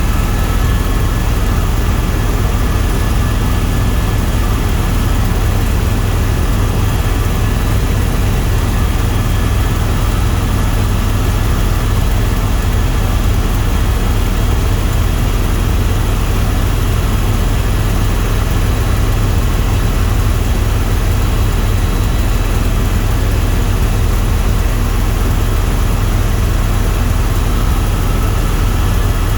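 Tour helicopter in steady flight, its engine and rotors making a loud, unchanging drone with a few faint steady high tones above it.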